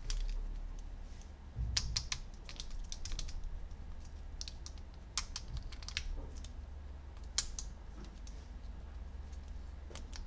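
Hard plastic toy parts being handled, giving scattered light clicks and taps in small clusters with pauses between, over a steady low hum.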